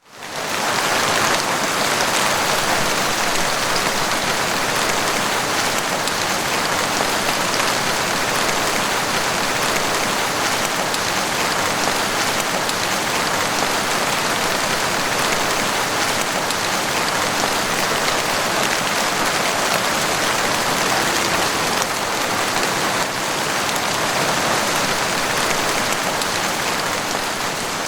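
Heavy rain falling steadily, a dense even hiss of drops with no distinct strikes standing out.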